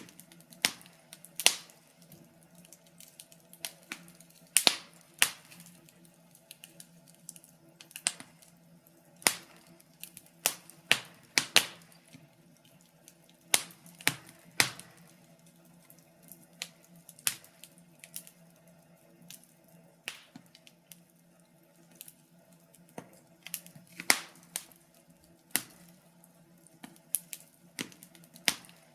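Wood fire crackling: irregular sharp pops and snaps, sometimes in quick clusters and sometimes a second or more apart, over a faint steady low hum.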